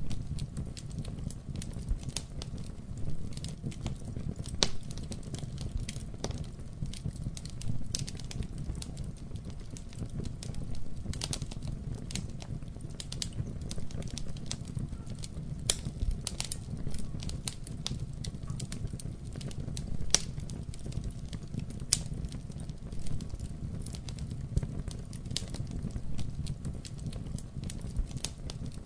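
Wood fire burning in a fireplace: a steady low rumble of flames with irregular crackles and pops throughout, one sharper pop about twenty seconds in.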